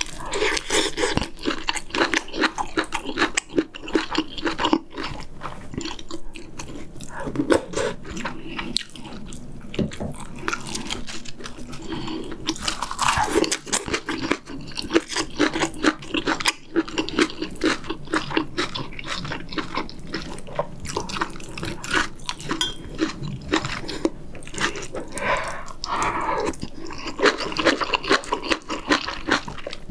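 Close-miked chewing and slurping of pork back-rib kimchi stew, a steady run of wet mouth sounds.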